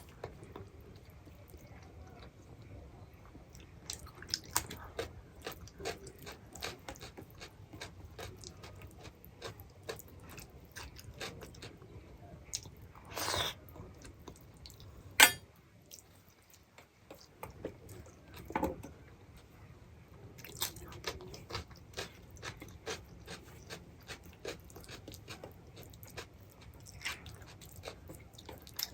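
Close-up eating sounds: a person chewing and biting food, with many small irregular mouth clicks and a sharp click a little past halfway.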